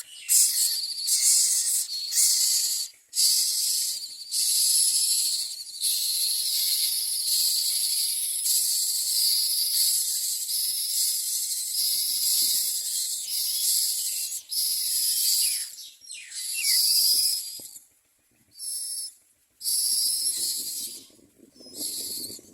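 Common myna nestlings giving harsh, hissing begging calls, in long stretches broken by short pauses, with a few separate shorter bursts near the end.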